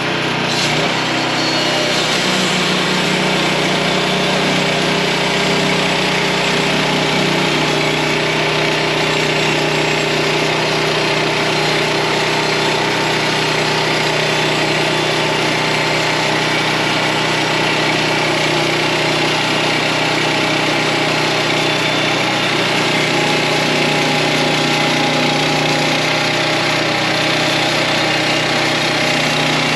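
Portable sawmill's gasoline engine running steadily, its pitch settling a second or two in and then holding even.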